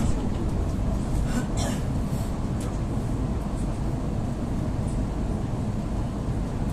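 EP2D electric commuter train running, heard from inside a passenger car: a steady low rumble of wheels on the track, with a brief hiss about a second and a half in.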